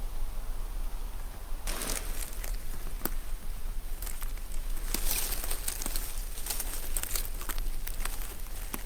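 Rustling and crinkling with many small sharp crackles, starting about two seconds in and thickening in the second half, over a steady low hum.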